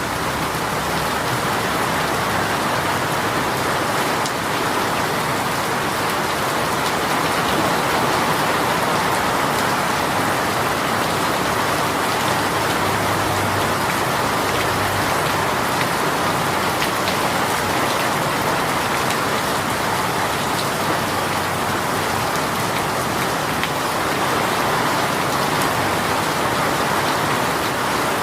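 A heavy rain shower falling steadily, a dense even hiss of rain on surfaces with faint scattered drop ticks.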